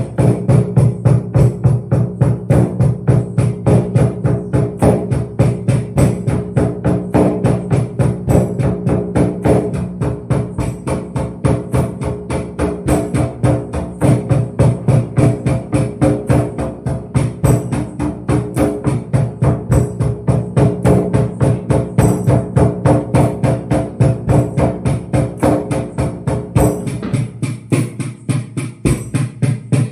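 Hand percussion beating a fast, even rhythm of about three to four strokes a second, with a tambourine jingle, over steady ringing tones. Near the end the ringing tones drop away and the beat carries on alone.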